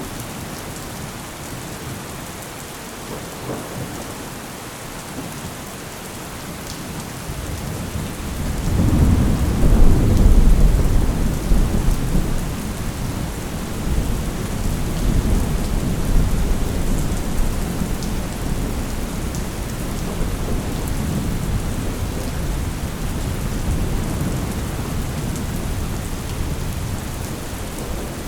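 Steady heavy rain with a long, deep roll of thunder. The thunder builds about eight seconds in, is loudest a couple of seconds later, and then keeps rumbling more softly under the rain.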